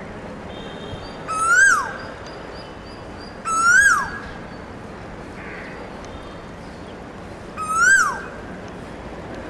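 A bird calling three times, each call a short loud whistle that rises and then drops sharply in pitch, over a steady outdoor background hiss.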